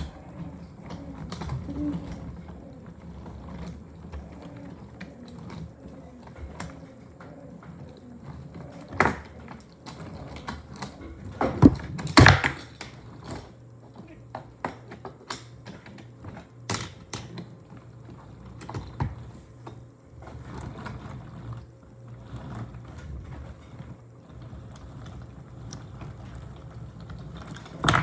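Wooden toy railway pieces clicking and clacking: irregular knocks of wooden trains and track, with a loud clatter about twelve seconds in.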